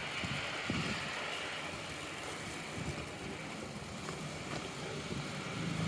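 A motor vehicle on a wet street: steady tyre and engine noise, with a low engine hum coming in near the end.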